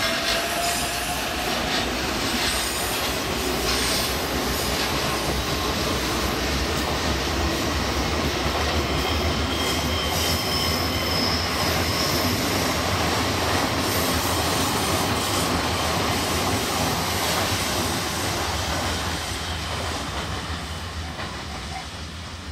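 E353-series limited express electric train running past on a curve as it pulls away after a stop, its wheels and running gear making a steady heavy rumble, with a brief high wheel squeal about ten seconds in. The sound fades over the last few seconds as the train moves off.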